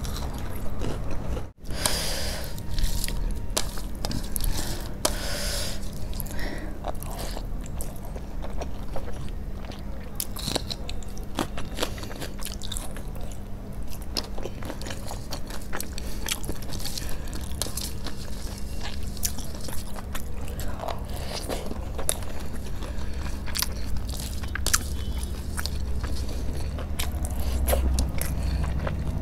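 Close-miked chewing and mouth sounds of a person eating rice and curry by hand, with many small wet clicks and smacks. There is a brief break about a second and a half in.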